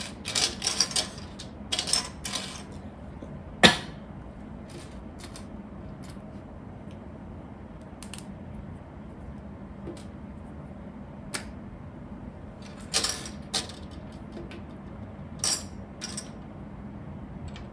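Small plastic Lego pieces clattering and clicking as they are sorted through by hand, with short rattling bursts over the first two seconds or so, one sharp click just under four seconds in, and scattered clicks later.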